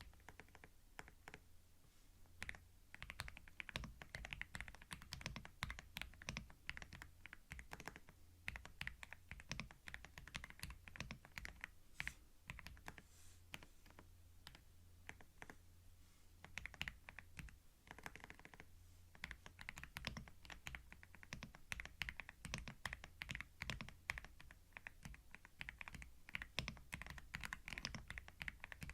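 Typing on a computer keyboard: quick runs of key clicks with brief pauses, starting about a second in, over a steady low hum.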